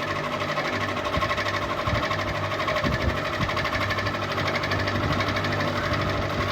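Ceiling fan running steadily: a constant low motor hum with a fast, even pulsing whir above it.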